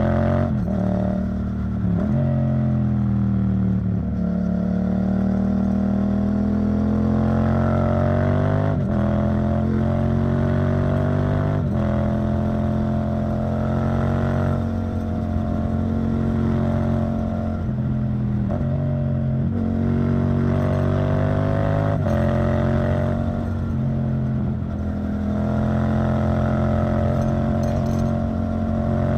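Yamaha MT-07's 689 cc parallel-twin engine running through an Arrow Thunder titanium exhaust on the move. Its pitch climbs slowly under throttle and drops abruptly at several gear changes, with long stretches held at a steady pitch.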